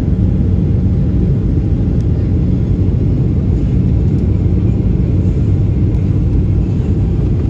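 Steady low cabin rumble inside a Boeing 737-800 airliner, an even drone of engine and airflow noise with no distinct events.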